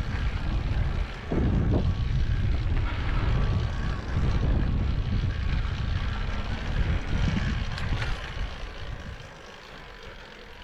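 Low rumble of wind on the microphone and tyres on a dirt trail as an electric mountain bike is ridden, dying down about nine seconds in.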